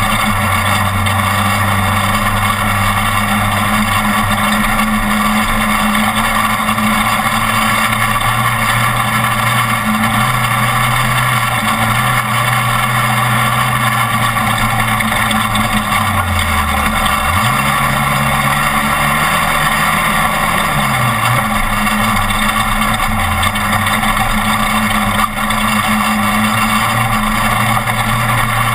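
Off-road race truck's engine running hard under a steady wash of road and drivetrain noise, its pitch dipping briefly near the start and again about halfway through, then climbing back up.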